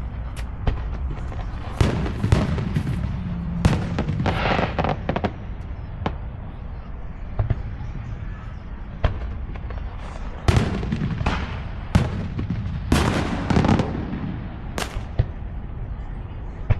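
Aerial fireworks bursting: an irregular series of sharp bangs, well over a dozen, some followed by short crackling tails.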